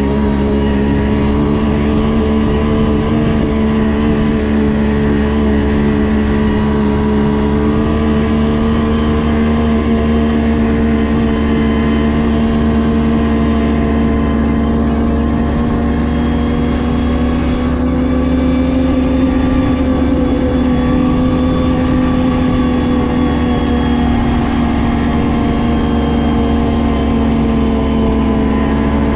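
Ski-Doo GSX 600 HO snowmobile's two-stroke twin engine running under way at a fairly steady cruise, its pitch drifting slightly up and down with the throttle.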